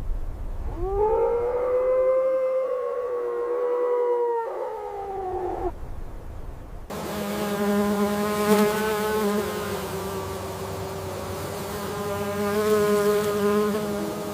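Two long, drawn-out animal calls. The first rises, holds for about four seconds and falls away. After a short gap a second, wavering call holds steady for about eight seconds.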